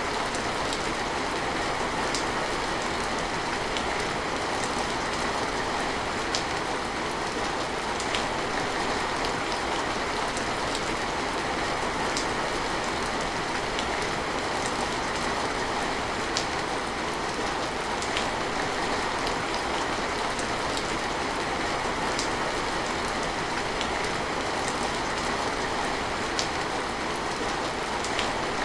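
Steady rain falling, an even hiss with scattered sharper drop ticks every second or two.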